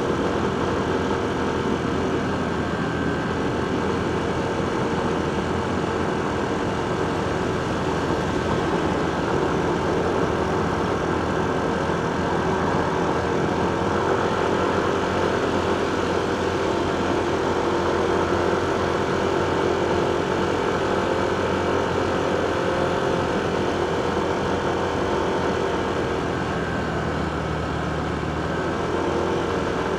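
Motorcycle engine running in heavy road traffic, a steady drone with a humming tone that strengthens and shifts in pitch through the middle.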